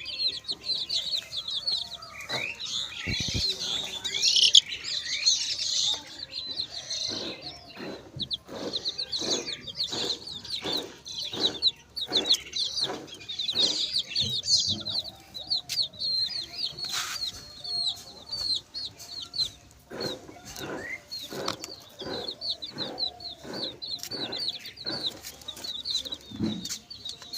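Domestic chicks peeping constantly in quick, high chirps, with a hen clucking in short repeated series in between.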